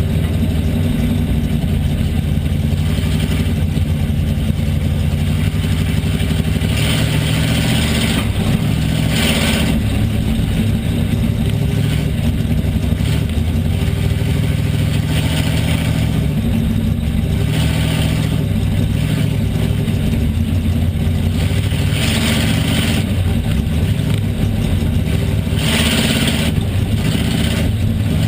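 Pure stock race car's engine running hard, heard from inside the car, its pitch rising and falling a little as it goes through the laps, with short surges of hissing noise every few seconds.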